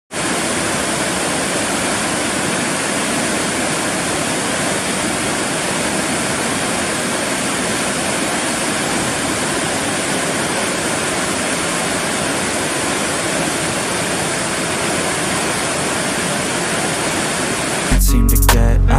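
Rushing river water, a steady, unbroken roar of flowing water. Near the end, loud music with a heavy bass cuts in.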